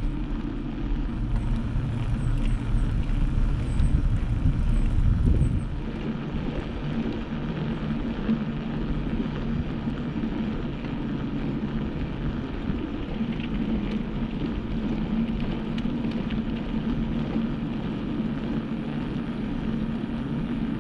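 Steady rolling noise of a ride with wind rumbling on the microphone; the rumble drops off about five seconds in, leaving a steady hum.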